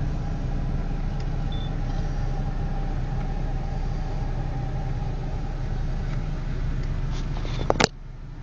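Car engine idling with a steady low rumble and hum. Near the end there are a couple of sharp clicks, after which the rumble drops away suddenly.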